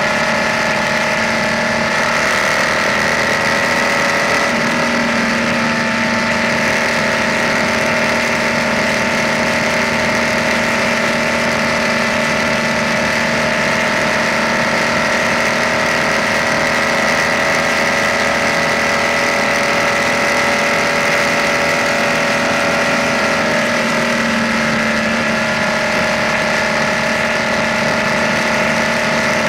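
BMW R nineT's boxer twin engine running steadily at cruising speed on the move, over a steady rush of wind. The engine note dips and comes back up about three quarters of the way through.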